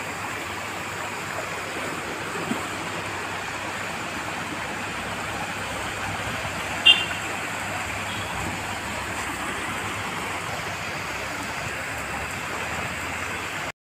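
Steady hiss of heavy rain falling, even and unbroken, with one brief high chirp about seven seconds in.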